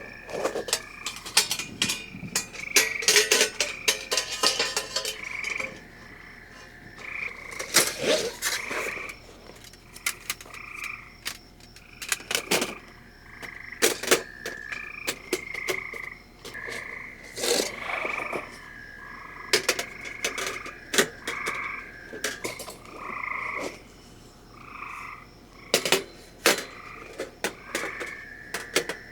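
Frogs calling in repeated short croaks, with sharp clicks and knocks scattered among the calls.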